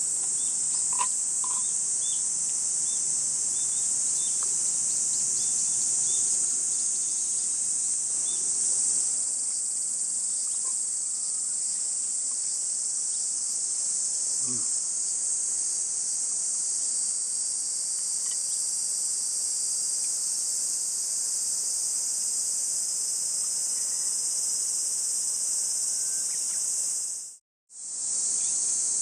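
Dense insect chorus of summer forest insects: a continuous, steady, high-pitched shrill drone that cuts out briefly near the end.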